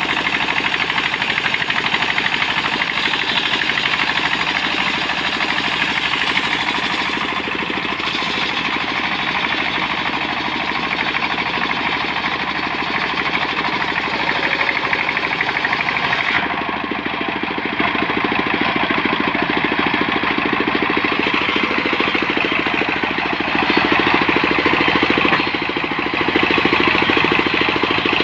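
Portable sawmill's engine running steadily under way, a loud, rough mechanical running with its tone shifting a little past halfway and growing louder briefly near the end.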